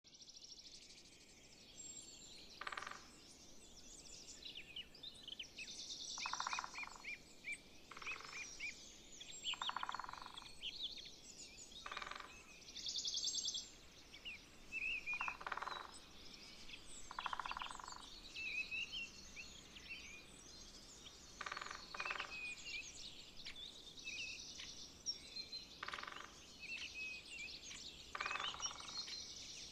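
Small birds chirping and singing, with short pulsing trills repeating every second or two over a faint outdoor background.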